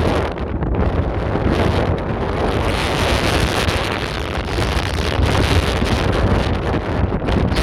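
Strong wind blowing fast and buffeting the microphone: a loud, steady rush with a deep rumble, gusting harder through the middle.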